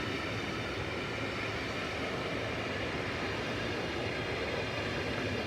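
Intermodal container freight train rolling past, a steady rumble and rail noise from its wagons.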